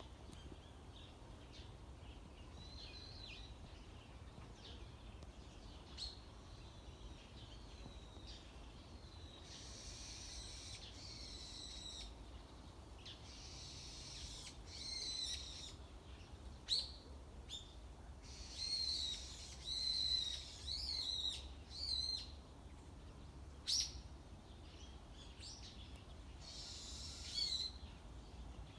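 Wild songbirds calling and singing: thin high chirps, then from about ten seconds in louder harsh, buzzy phrases repeated several times, with short sharp notes between them.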